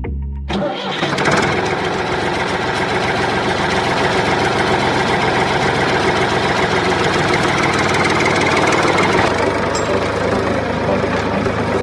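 An engine running steadily with a fast, even chug. It starts about half a second in and cuts off suddenly at the end.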